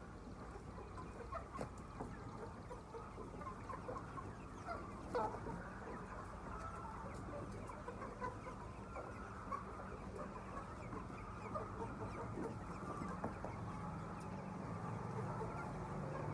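A flock of chickens clucking and chirping, many short calls overlapping continuously, with one louder sharp call about five seconds in.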